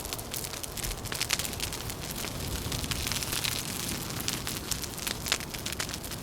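Wood fire crackling with frequent sharp pops, over a steady low rush of wind that swells slightly in the middle.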